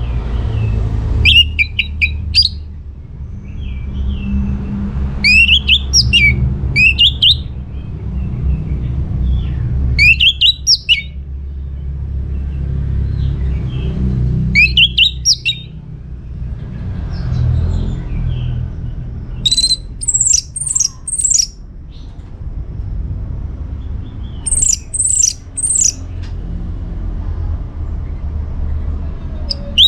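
Orange-headed thrush singing: short phrases of quick, high whistled notes, repeated every few seconds, over a steady low rumble.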